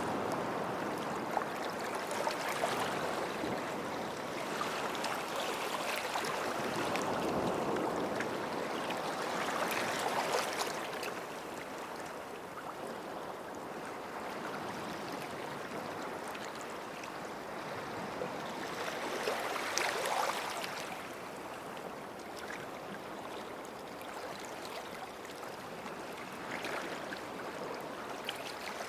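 Sea waves washing onto a sandy beach, a steady hiss of surf that swells twice as a wave breaks and runs up the shore, about ten seconds apart, with a fizzing crackle as the water draws back.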